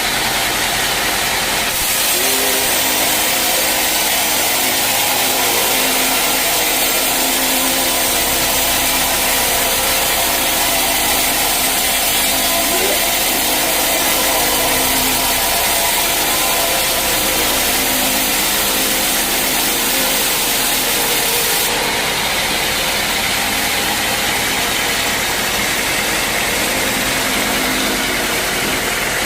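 Sawmill saw running steadily. From about two seconds in to about twenty-two seconds in, a louder, hissing cutting sound rides over the machine's hum as the blade goes through a teak log, then it drops back to the saw running.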